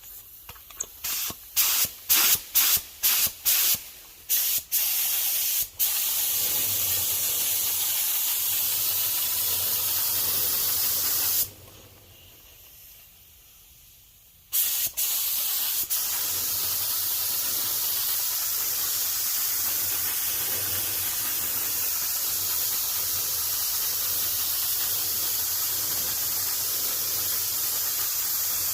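Paint being sprayed. First comes a series of about a dozen short hissing blasts, then long steady spraying, broken by a pause of about three seconds near the middle.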